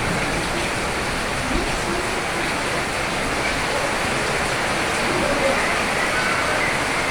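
Steady heavy rain, an even hiss with no pauses, with faint short tones now and then in the background.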